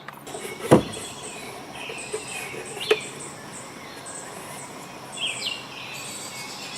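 Birds chirping in short, quick rising calls over a steady insect-like hiss, with a sharp knock about a second in and a lighter knock around three seconds.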